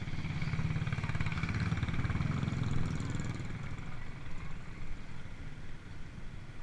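A motor vehicle's engine passing close by, loudest over the first few seconds and then fading as it moves away.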